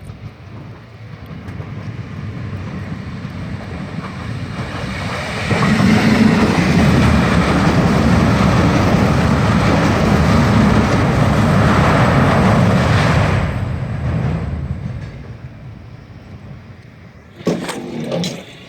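A vehicle passes close by: its sound builds for about four seconds, stays loud for about eight, then fades away. A few short, sharp knocks follow near the end.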